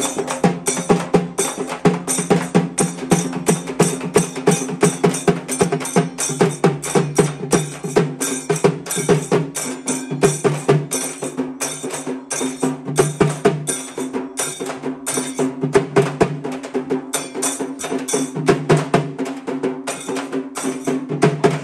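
Percussion music: fast, dense drum strokes, several a second and without a break, over a steady low sustained tone.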